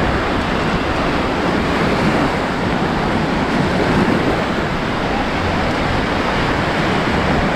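Surf washing onto a beach: a steady rushing noise, with wind buffeting the microphone.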